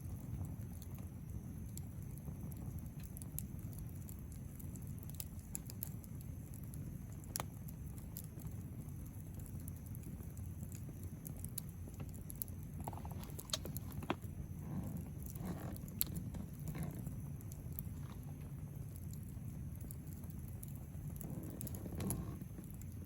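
Wood campfire burning: scattered sharp crackles and pops over a steady low rumble of flame, with a few denser flurries of crackling.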